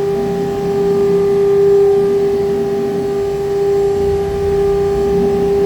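A 1325 CNC router running, giving off a steady, even whine over a low rumble.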